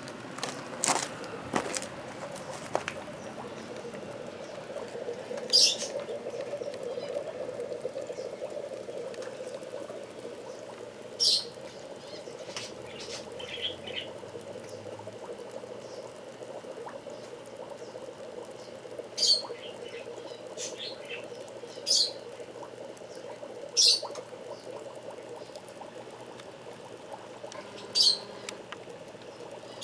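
Short, sharp, high chirps from small cage birds, about six spread a few seconds apart, over a steady low hum like a tank filter or pump. A few light clicks come in the first few seconds.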